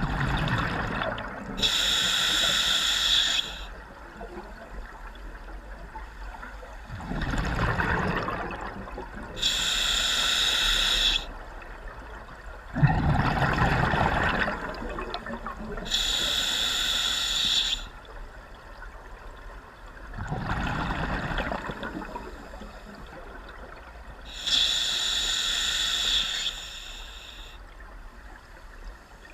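Scuba diver breathing underwater on an open-circuit regulator: a hissing, slightly whistling inhale through the regulator alternates with a lower rush of exhaled bubbles, four slow breaths about every seven seconds.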